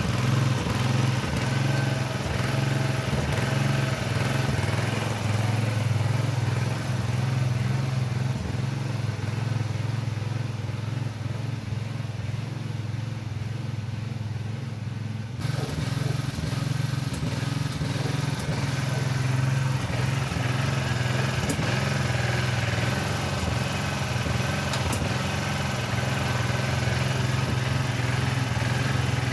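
Small engine of a Craftsman front-end loader garden tractor running steadily.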